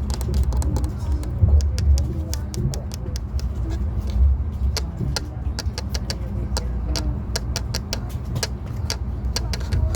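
Passenger train cabin: a steady low rumble with many scattered sharp clicks and ticks, and faint voices in the first couple of seconds.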